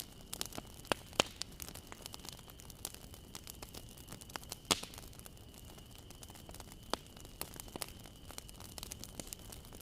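Bonfire crackling: irregular sharp pops and snaps over a soft hiss, the loudest pop a little before the middle, with a faint steady high whine underneath.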